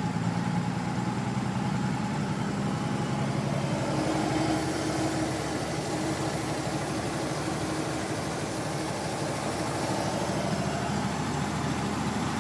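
Willys-Knight sleeve-valve engine running as the car drives along, with a steady low engine note and road noise. The engine note shifts about four seconds in.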